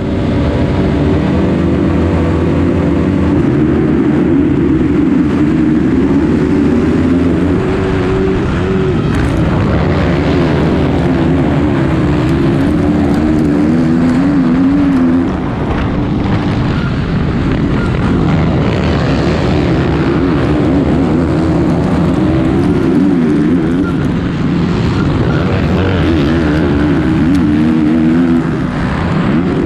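A 450-class four-stroke motocross bike's engine under hard racing throttle, heard up close from an onboard camera, its revs repeatedly climbing and dropping with gear changes and throttle. The engine briefly eases about halfway through and again near the end.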